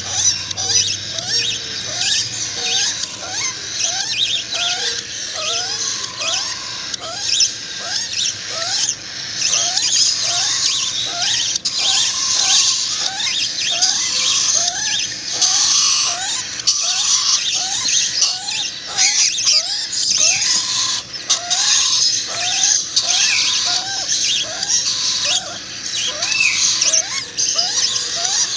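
Nestling birds begging for food while being hand-fed: a dense mass of high chirping, with a lower rising call repeated about twice a second.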